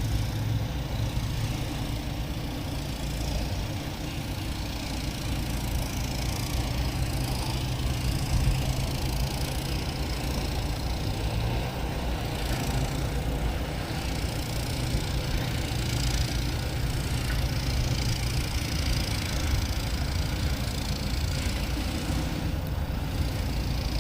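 Steady rumble of distant road traffic, with a low hum underneath.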